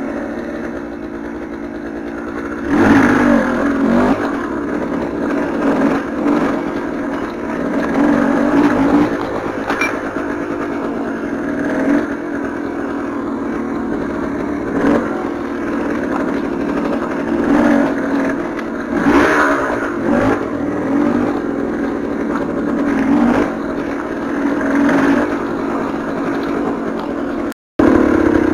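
KTM 300 TPI fuel-injected two-stroke single-cylinder enduro engine running under way, revving up and falling back again and again as the bike is ridden at low speed. The sound drops out for a moment near the end.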